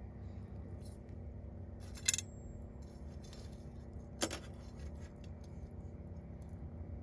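Wood fire crackling, with faint ticks throughout and two sharp pops, about two seconds in and again about four seconds in.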